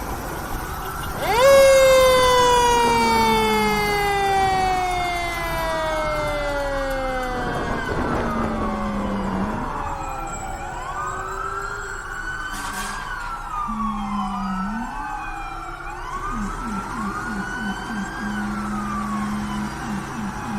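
Fire truck sirens. About a second in, one siren rises sharply to its loudest, then winds slowly down in pitch over about eight seconds. After that, several siren wails overlap, rising and falling, with short low tones between them.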